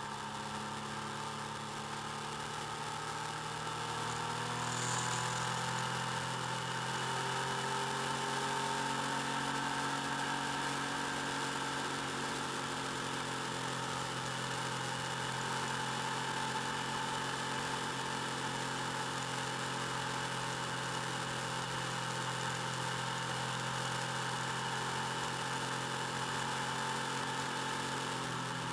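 Motorcycle engine running steadily while riding, heard through a bike-mounted camera microphone with a steady hiss. It gets a little louder about four seconds in.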